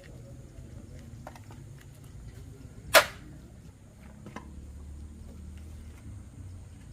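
A single sharp knock, like a hard object striking metal, about three seconds in, with a few faint clicks around it over a low steady hum.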